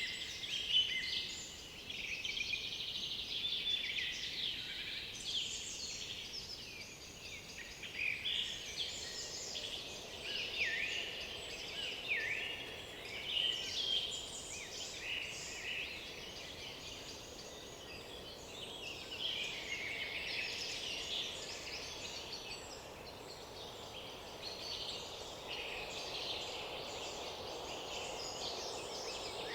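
Several songbirds singing at once in woodland, with overlapping trills, chirps and short down-slurred whistled phrases from a number of birds. The singing is busiest in the first half and thins a little toward the end.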